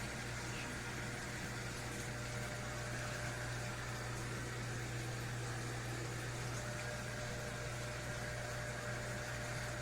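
Portable washing machine running with a steady low hum and a faint hiss.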